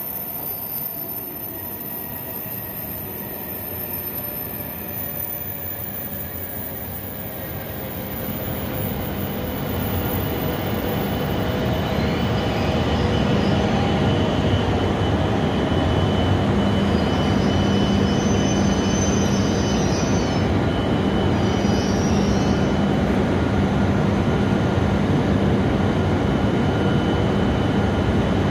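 E7 series Shinkansen standing at the platform, its underfloor equipment and air-conditioning blowers running with a steady hum and a faint high whine. It grows louder about ten seconds in, then holds steady.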